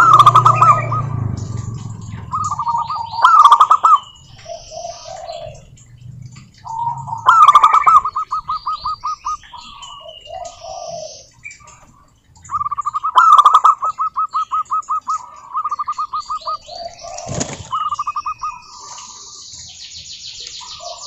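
Zebra doves singing: bursts of rapid staccato cooing notes every few seconds, each one to three seconds long, with other small birds chirping higher-pitched between them.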